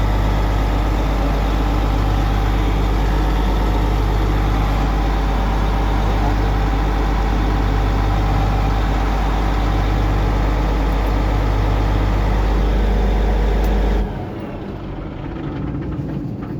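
A heavy diesel engine idling steadily with a deep, even hum, which cuts off abruptly about fourteen seconds in, leaving quieter background noise.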